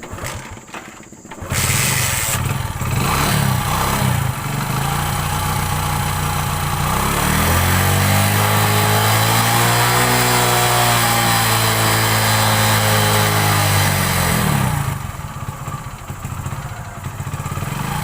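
Hero Passion Pro motorcycle's single-cylinder four-stroke engine catching about a second and a half in and running, revved up and back down in the middle, then settling to idle near the end. It starts once petrol flows again after an air lock in the tank had kept fuel from reaching the engine.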